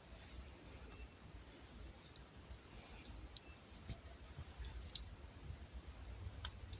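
Faint, scattered sharp clicks and ticks coming at irregular intervals over a low background hum.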